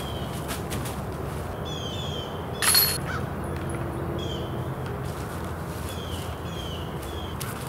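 Birds calling in short, repeated, falling chirps over a steady outdoor background, with one brief louder clatter a little under three seconds in.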